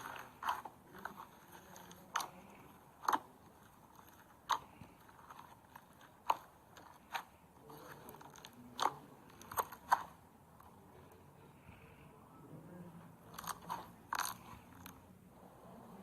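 Slime mixed with styrofoam beads (floam) being squeezed and pressed, giving sharp, irregular crunches and crackles every second or so.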